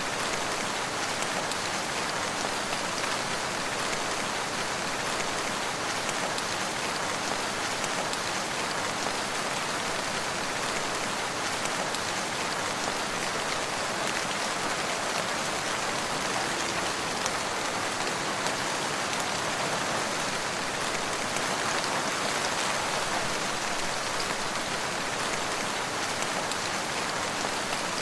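Steady rain falling, many drops pattering on a surface in an even, unbroken wash of sound.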